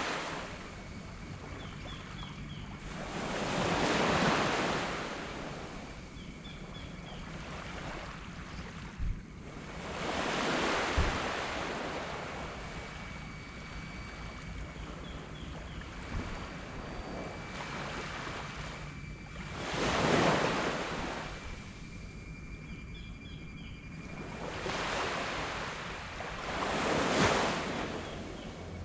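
Small waves breaking and washing up a black sand beach, each one swelling and dying away, about one every few seconds. A steady low rumble runs underneath, and there are two short thumps near the middle.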